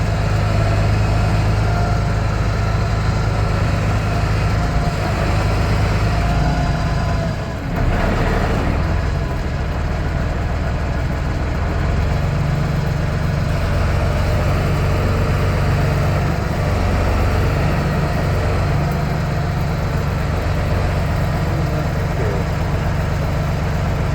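A vehicle's engine idling steadily, with a heavy low hum, and a brief drop in level about seven and a half seconds in.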